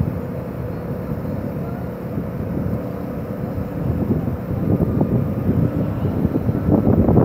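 Car engines running at idle with a steady low rumble, growing louder and rougher from about halfway through as a car creeps toward the microphone.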